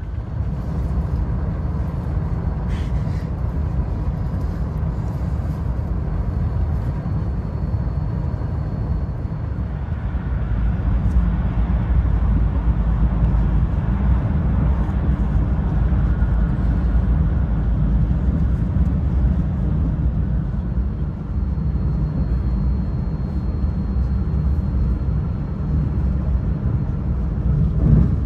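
Running noise of a VR Pendolino Sm3 electric tilting train at speed, heard from inside the passenger car: a steady deep rumble that grows somewhat louder about ten seconds in.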